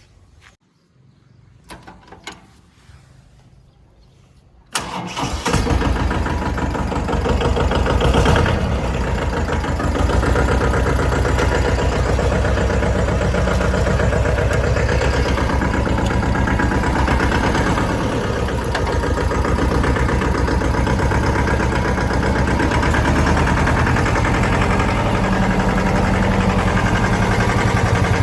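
Mahindra Jivo 305 DI tractor's diesel engine starting: a few clicks, then the engine catches suddenly about five seconds in, revs up briefly, and settles to a steady run.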